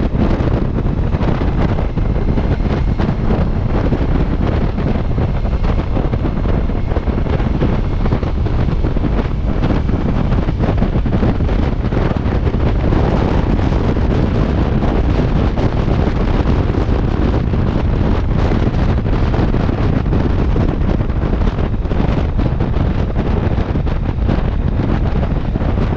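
Heavy wind buffeting the microphone of a moving motorcycle, steady throughout, with a low rumble of engine and road noise beneath it.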